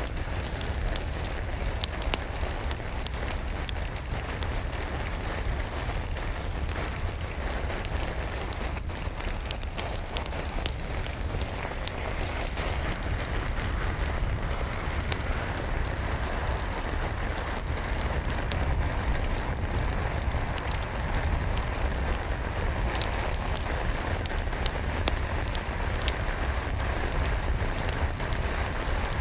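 Steady rain with a low rumble under it, mixed with a wood fire crackling. Sharp pops come at irregular moments throughout.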